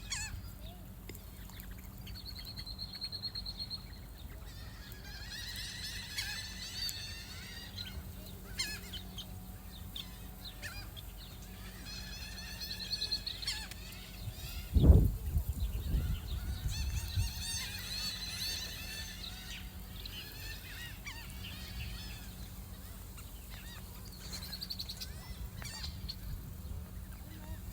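Geese honking in several bursts of calls. A loud low thump about halfway through.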